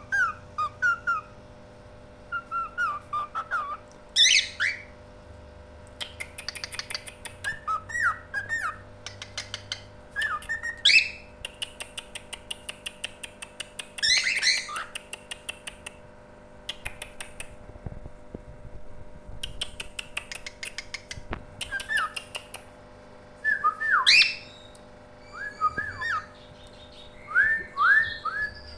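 Songbird singing in short bouts: clear whistled notes broken by rapid chattering trills and quick upward-sweeping whistles.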